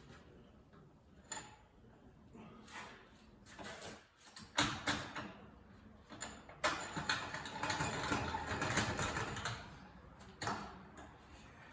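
Metal knocks and clanks, then a few seconds of rattling, scraping noise from handling the split tractor's heavy parts, with another knock near the end.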